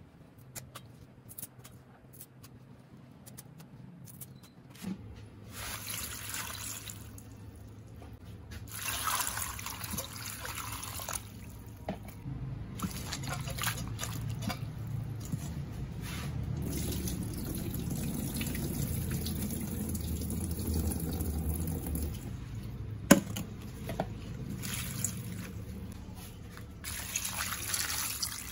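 Water running from a tap into a sink in several spells, turned on and off, with a sharp knock about three quarters of the way through.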